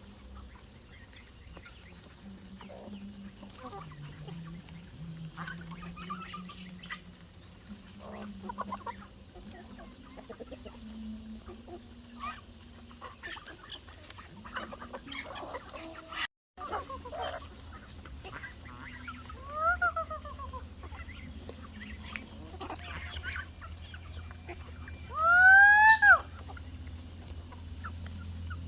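Farm poultry calling: chickens clucking in short, scattered bursts, with loud honking calls about two thirds through and again, loudest, near the end.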